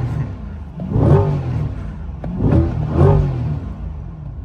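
A car engine being revved in short blips: three times the pitch sweeps up and falls back to idle.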